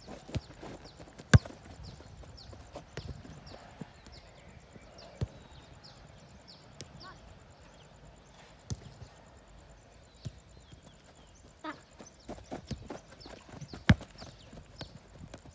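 Football being kicked and trapped during practice: scattered sharp thuds, the loudest about a second in and again near the end.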